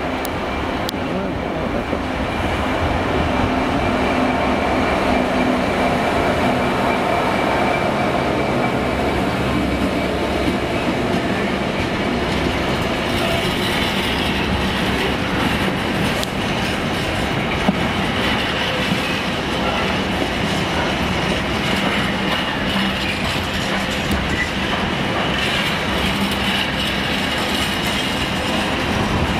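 Class 66 diesel freight locomotive passing with its engine running, then a long rake of mostly empty container flat wagons rolling by with a steady clickety-clack over the rail joints. A high wheel squeal comes and goes through the second half.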